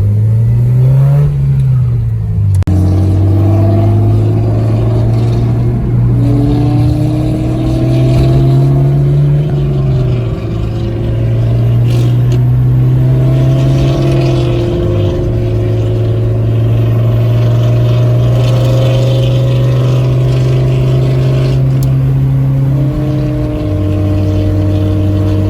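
2006 Acura RSX Type-S's four-cylinder engine and Borla cat-back exhaust under way, the pitch climbing slowly through each gear and dropping back at the shifts several times.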